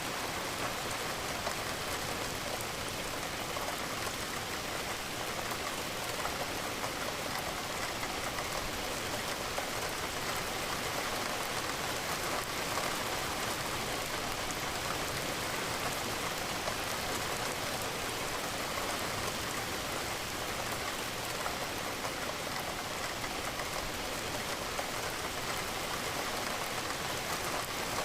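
Steady rain falling against a window, an even hiss that doesn't change.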